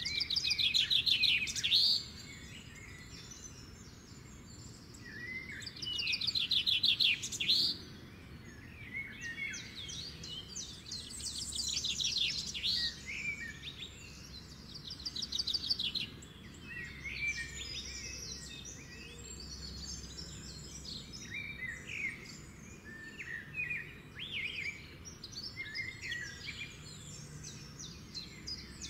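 Several songbirds singing and calling. A loud, rapid trill lasting about two seconds comes at the start and again about six seconds in, with shorter chirps and phrases throughout, over a faint steady low background noise.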